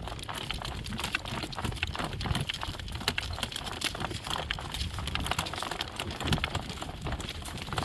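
Hoofbeats of driven horses clip-clopping, a run of sharp clicks over a low rumble of wind on the microphone.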